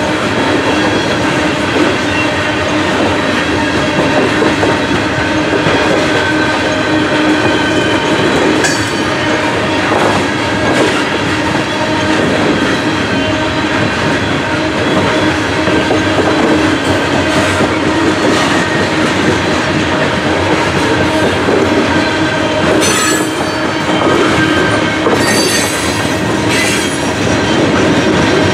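CSX coal train's hopper cars rolling past, with a steady rumble and clatter of steel wheels on the rails. Short, high wheel squeals ring out a few times near the end.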